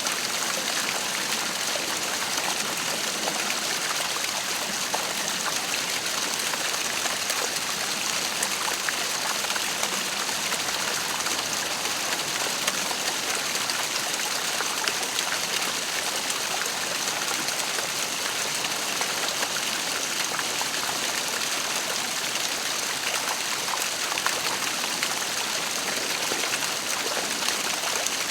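Waterfall: water falling and splashing in a steady, unbroken rushing hiss that is heavier in the highs than in the bass.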